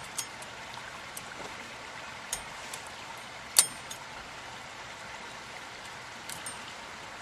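Scattered light metal clinks and taps of hand tools working on truck front-axle parts, with a sharper clink about three and a half seconds in, over a steady hiss.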